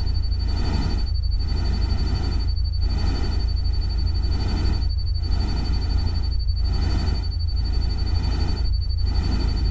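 Steady noise track with a deep, constant rumble underneath, dipping briefly about once a second, and a thin steady high tone above.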